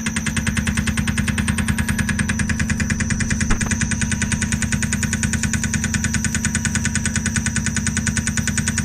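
Milling machine cutting metal, with a steady rapid rhythmic pulsing of about ten strokes a second over a constant hum and high whine from the spindle drive.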